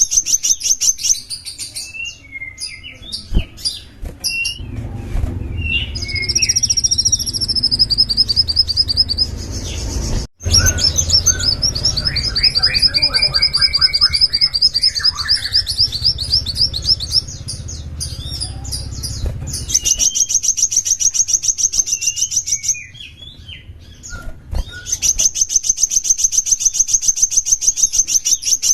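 Small songbird singing rapid, high-pitched trills and chirps, with a low rumble behind it from about five to twenty seconds in and a brief cut about ten seconds in.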